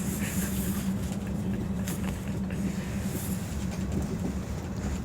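A vehicle's engine drone: a steady low rumble with a constant hum, and occasional light rattles.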